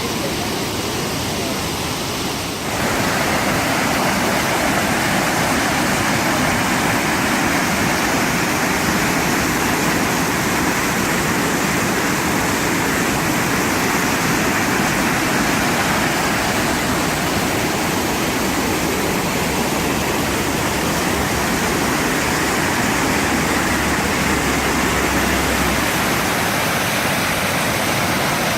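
Waterfall: a steady rush of falling water that gets louder about three seconds in.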